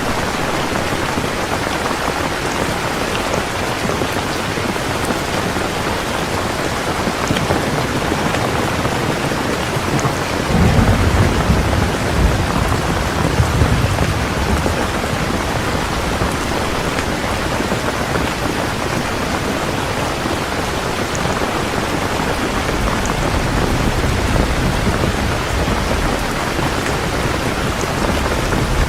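Steady rain falling. A deep rumble of thunder rolls in about ten seconds in and lasts several seconds, and another begins near the end.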